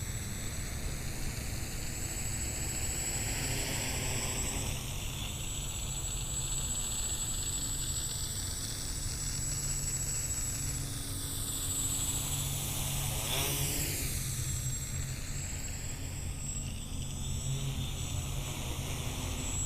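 Xaircraft X650 quadcopter's electric motors and propellers whirring steadily in flight as it moves about, passing close to the microphone about two-thirds of the way through.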